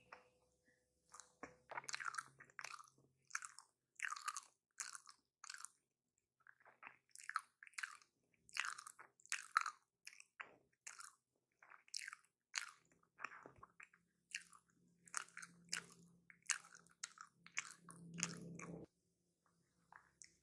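A person chewing a footlong hot dog in a bun close to the microphone: crisp, wet chewing strokes about two a second, with a couple of short pauses.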